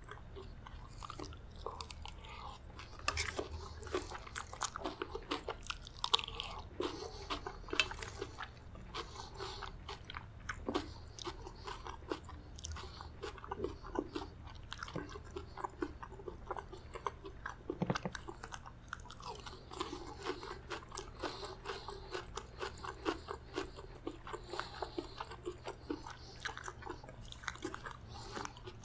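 Close-miked chewing and crunching of mouthfuls of chicken gizzard curry with rice and crisp raw salad leaves: a dense, irregular run of wet crackles and crunches.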